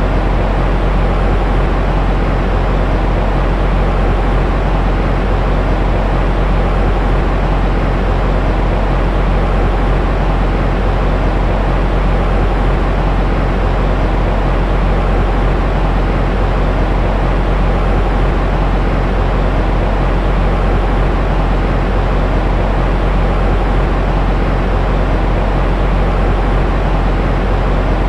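Steady white noise for a baby's sleep, a deep rushing hiss that is heaviest in the low end and fades off in the highs, with no changes or breaks.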